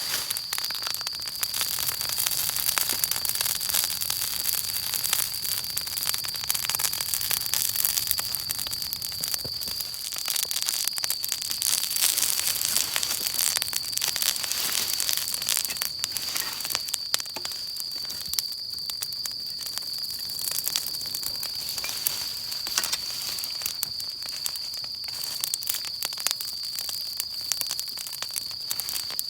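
Wood campfire burning with dense, irregular crackling and popping, over a steady thin high-pitched tone.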